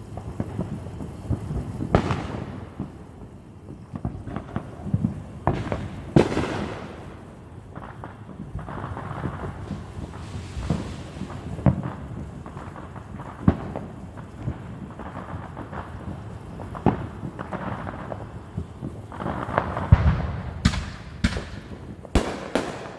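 Fireworks popping and booming around the neighbourhood, scattered reports with a rumbling tail, then a quick string of sharp cracks near the end.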